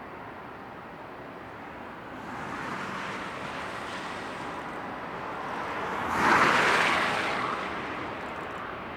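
Jet airliner passing: a rushing engine noise that builds, peaks sharply about six seconds in, then dies away.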